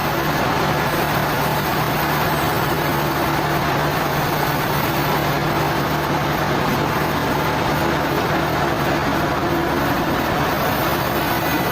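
Heavy machinery running steadily at a constant speed: a continuous engine-like drone with a low hum and no change in pitch or level.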